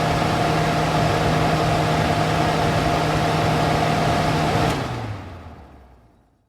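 Smoke extractor fan running with a steady motor hum over rushing air. About four and a half seconds in there is a click, and the hum drops in pitch and dies away to silence as the fan winds down.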